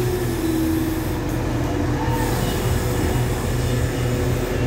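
Passenger train coaches rolling slowly past along the station platform, with a steady hum from the train's running gear and on-board machinery.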